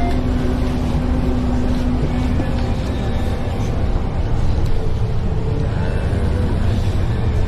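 Steady low rumble of a moving public transit vehicle, heard from inside the cabin, with a steady hum that fades out about two seconds in.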